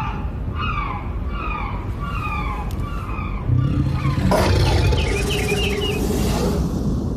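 Animal calls: a short falling chirp repeated about twice a second over a steady low rumble. About four seconds in, the sound grows louder and fuller, with a few quick high chirps.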